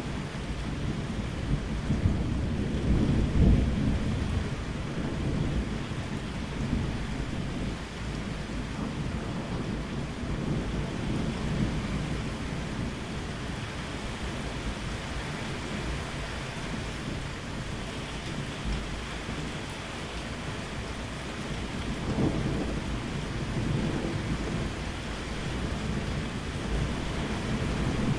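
Steady rain with low rolling thunder. The rumbles swell about three seconds in and again about three quarters of the way through.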